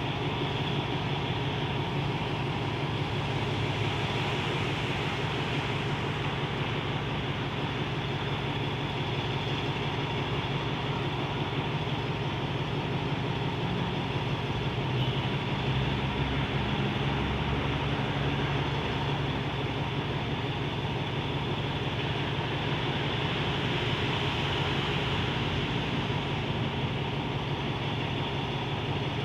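Alsthom diesel-electric locomotive idling with a steady low hum.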